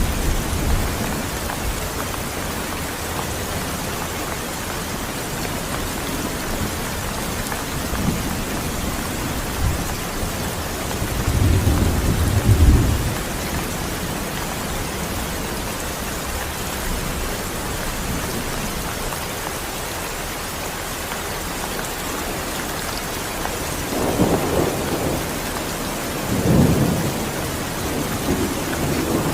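Steady rain pouring, with low rumbles of thunder swelling up about twelve seconds in and again twice near the end.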